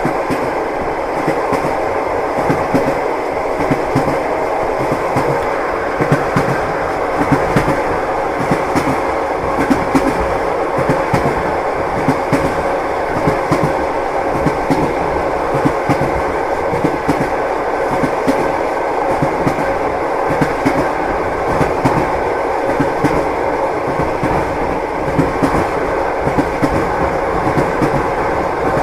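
Train wheels knocking over rail joints in a steady run: a continuous rolling rumble with an irregular clatter of knocks, the clickety-clack of a moving train.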